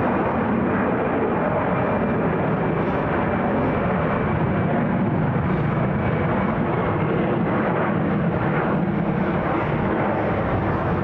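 Delta Boeing 767-400ER's twin turbofan engines at takeoff power during its departure, a steady jet roar.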